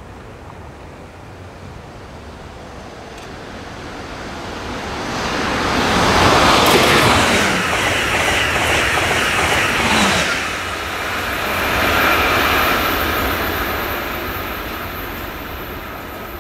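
Amtrak Acela Express high-speed electric train passing at speed: a rush of noise that swells over several seconds, is loudest as the train goes by, with a pitch that drops as it passes, then fades away.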